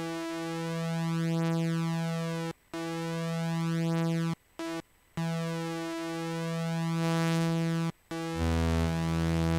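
Synthesizer playing long held notes on one pitch, broken by a few short gaps. Near the end the sound turns brighter and a lower note comes in under it.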